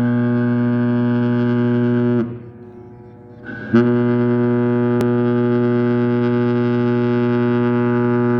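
Cruise ship's horn giving two blasts of one deep, steady, unchanging tone: the first cuts off about two seconds in, and after a pause of a second and a half a long second blast starts and runs on.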